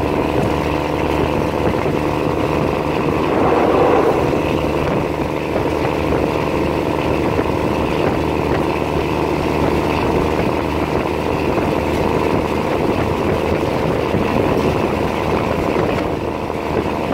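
A moving train heard from inside the carriage: a steady engine drone under wheel-and-rail running noise, a little louder about four seconds in.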